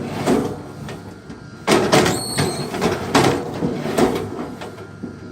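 Heavy knocks and thuds of large wooden logs being struck or handled, four or five blows about a second apart with scraping noise between them.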